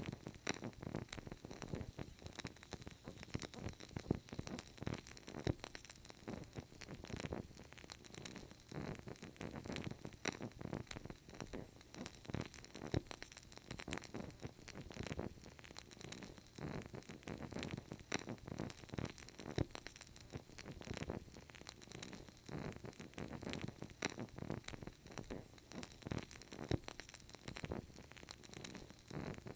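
Burning candle crackling quietly: a dense, irregular run of small ticks and pops that never lets up.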